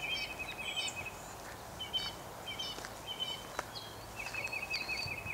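Several songbirds singing: a rapid, even trill that comes twice, at the start and again near the end, mixed with short chirps and whistled notes, over faint outdoor hiss.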